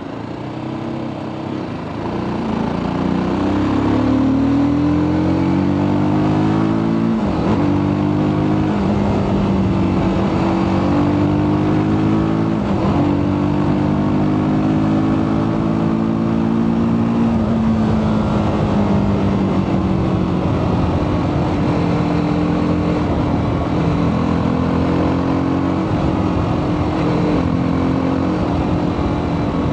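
TVS Apache RTR 310's single-cylinder engine through its stock exhaust, pulling up through the gears: the pitch climbs, drops sharply at two upshifts about 7 and 13 seconds in, then falls as the throttle is eased off and settles into a cruise.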